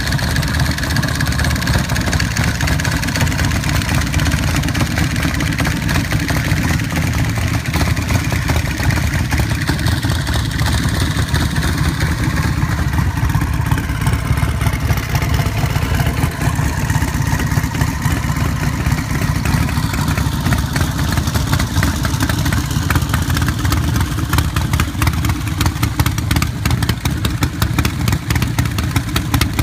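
Engine of a turbocharged custom motorcycle running steadily, with a deep, rapid exhaust pulse.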